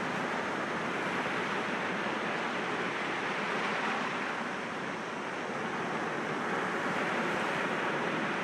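Sea waves washing against rocks, a steady surf wash that dips a little midway and swells again.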